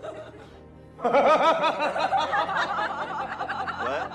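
A man laughing: a quick run of chuckles that starts about a second in and keeps going.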